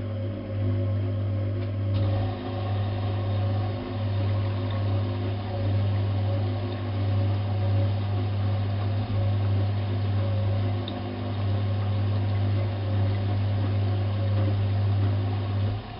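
Bosch WFK 2431 washing machine's motor running with a steady low hum as it turns the drum, stopping near the end.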